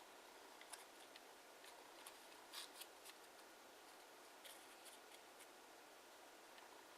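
Faint, scattered clicks and crinkles of kraft origami paper being handled and creased by hand, the strongest about two and a half seconds in, over a low steady hiss.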